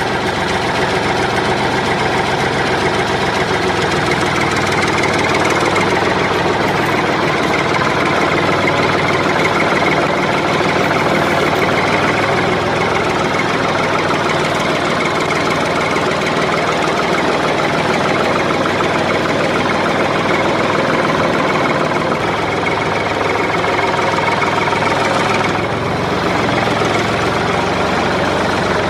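Engine sound of a tractor running steadily at idle with a knocking, chugging beat.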